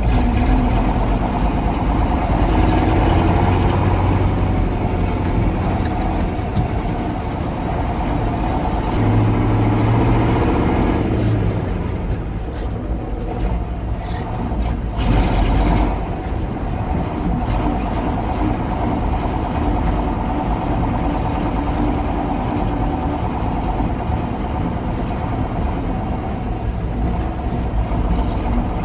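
1985 KAMAZ 4310 6x6 military truck's V8 diesel running steadily under load while driving off-road, with a few short knocks or clatters in the middle.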